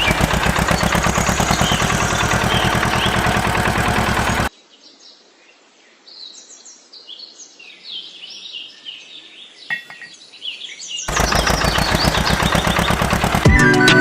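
Fast, even mechanical chugging, many beats a second, which cuts off abruptly after about four and a half seconds. Birds then chirp in short rising and falling calls until the chugging returns about three seconds before the end.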